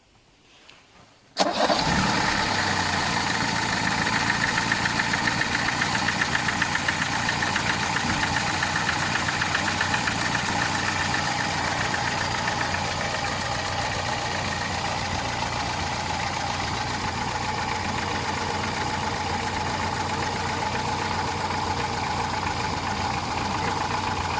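Car engine starts up about a second and a half in and then idles steadily. It is being run to bleed trapped air out of the cooling system, with a hose disconnected to let the air escape, after a cracked coolant hose was clamped and the coolant refilled.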